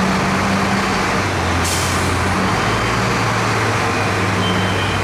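Fire engine's diesel engine running in the cab, with a sharp hiss of air brakes about two seconds in that trails off.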